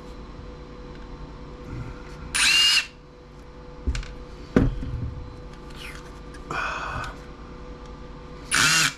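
Cordless power driver run in three short bursts of about half a second each, backing out screws, with a couple of sharp knocks of parts being handled in between.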